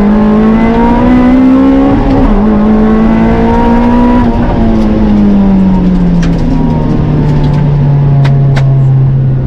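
Toyota MR-S engine pulling hard, its note climbing, with a brief break about two seconds in, then falling away as the car slows and settling to a steadier, lower note. A few faint clicks sound near the end.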